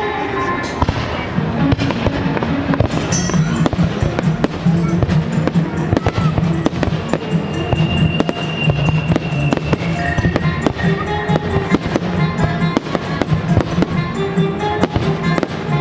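Fireworks going off in a dense run of sharp bangs and crackles, several a second, over the show's accompanying music.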